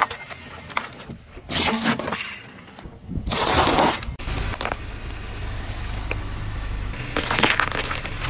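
Car tyres rolling over and crushing objects: four short bursts of crunching and scraping noise over a low, steady car rumble.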